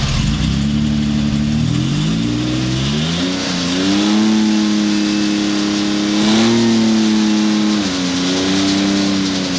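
Off-road rock crawler's engine revving under load, climbing in pitch a few seconds in and held high, with a short extra surge near the middle, then easing off and picking up again near the end.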